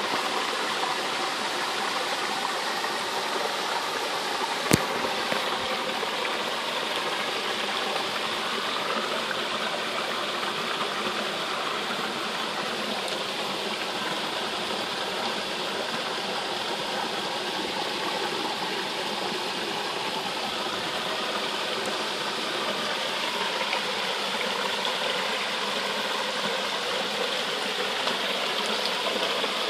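Steady rush of running water, as in a trout-farm water inflow or stream, with one sharp click nearly five seconds in.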